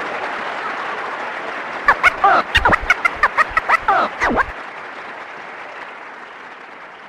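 Crowd applauding and cheering, with a burst of short whoops and shouts about two to four seconds in; the applause then slowly fades out.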